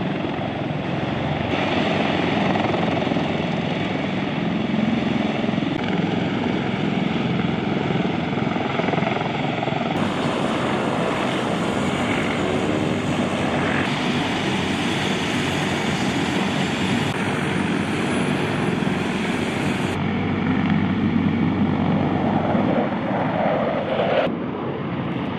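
CH-53K King Stallion heavy-lift helicopter in flight: steady rotor and turbine noise. Its tone and loudness shift abruptly every few seconds from one shot to the next.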